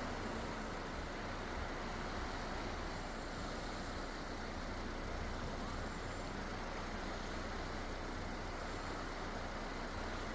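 Boat engine running steadily: an even low rumble under a continuous hiss.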